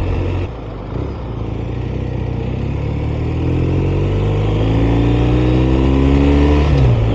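BMW R 1250 RS boxer twin engine accelerating. The revs climb steadily for several seconds, drop sharply near the end as it shifts up, then climb again, with steady wind and road noise underneath.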